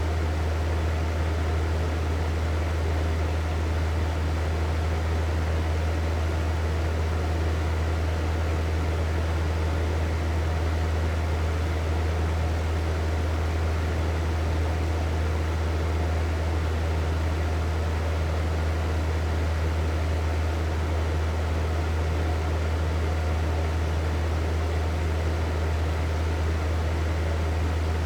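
Hair dryer running steadily: a constant rush of air over a low motor hum, with no change in speed.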